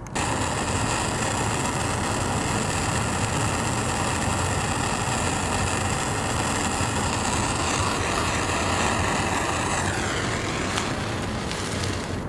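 Gas torch burning with a steady hiss, heating a broken intake-manifold bolt in the engine block to loosen it. Faint whistling tones in the hiss slide down in pitch about ten seconds in.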